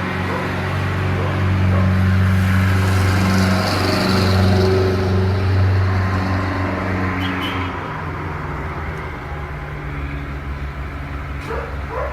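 A steady low hum, like a running motor or engine, that weakens about two-thirds of the way through. A few short dog barks come near the end.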